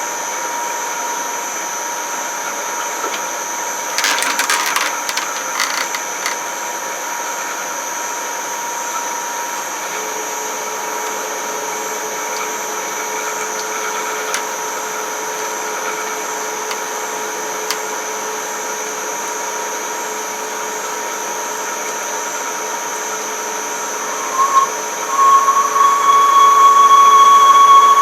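A machine tool runs steadily while drilling holes in a metal part, with a short clatter of clicks about four seconds in. In the last few seconds the drill bit squeals loudly in the cut, the pitch bending briefly at the very end.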